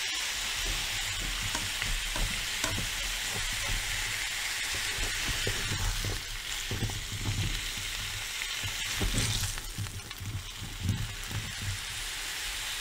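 Cubed zucchini sizzling steadily as they fry in a hot pan, with a spatula stirring them, scraping and tapping against the pan at irregular intervals, most often in the second half.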